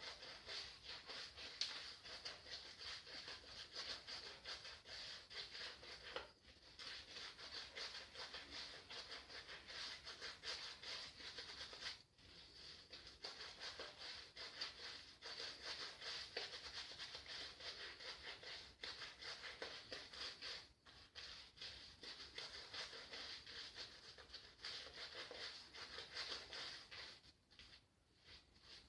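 Shaving brush swirling thick shaving-cream lather, a soft, fast, scratchy swishing that keeps going with a few short breaks.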